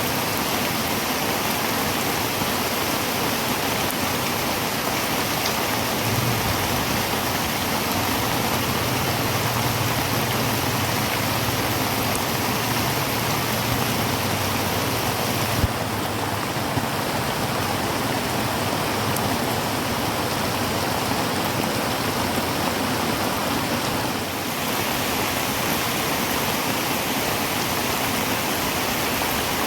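Heavy rain drumming steadily on a tin roof. A low hum sits under the rain for several seconds in the first half, and a single sharp tap sounds about halfway through.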